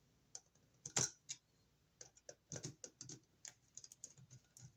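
Irregular small clicks and taps of a flathead screwdriver against a wall receptacle's terminal screw as stranded copper wire is pushed around and under the screw head. The sharpest click comes about a second in, followed by a scattered run of lighter taps.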